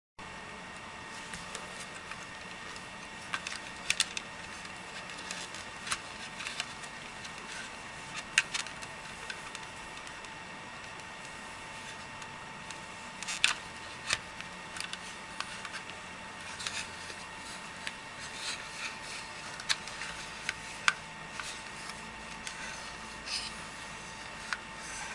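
Irregular small clicks and taps, as from a plastic computer mouse being handled and its buttons pressed, over a steady electrical hum with a fixed tone.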